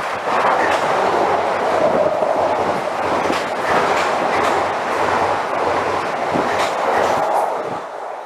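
A train passing close by: a loud, steady rush of wheel and rail noise, with the wheels clicking over rail joints, fading near the end.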